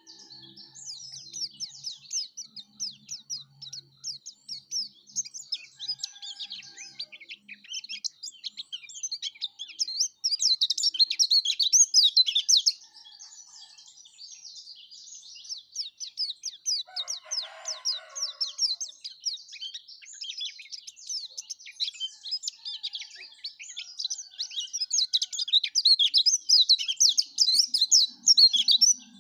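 Yellow-breasted white-eye (pleci dada kuning) singing a long, rapid, high-pitched twittering song with no break, loudest in two stretches, one near the middle and one near the end.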